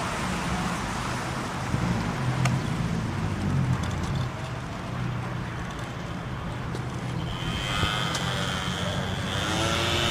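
Car engine running at a race track, with a steady low drone and road or wind noise. About three-quarters through, a higher-pitched engine whine rises in pitch and then holds steady.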